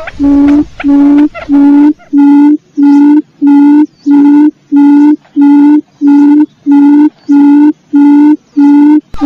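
Quail lure call: one low hooting note repeated evenly, about two a second, as a looped recording. A faint background hiss under the notes drops away about two seconds in.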